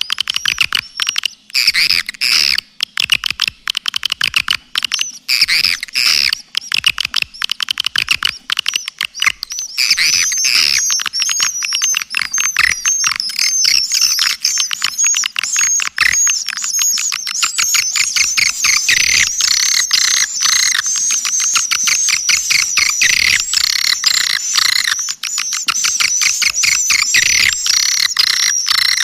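Swiftlet lure-call recording (suara panggil): dense, rapid high-pitched chirps and twittering clicks of swiftlets, with almost nothing low. The calls grow busier and more continuous about ten seconds in.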